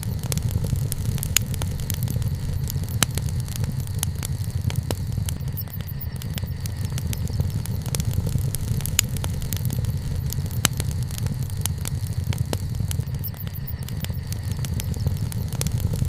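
Wood fire burning: a steady low rumble of flames with irregular sharp crackles and pops of burning wood.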